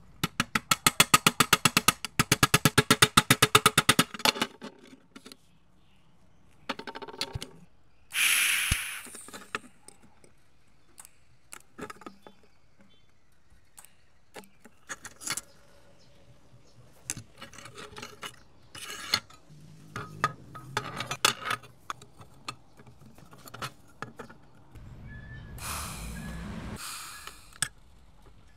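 Workshop handling sounds: a fast, even run of clicks, about nine a second, for about four seconds, then a short hiss and scattered metallic clinks and knocks.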